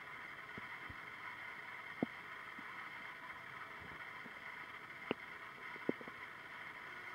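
Human stomach rumbling: three short gurgles, about two seconds in and again around five and six seconds, over a steady hiss.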